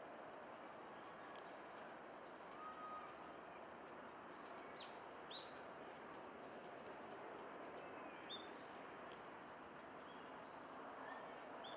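Faint outdoor ambience: a steady low hiss with small birds giving short, high chirps scattered throughout, a couple slightly louder about five and eight seconds in.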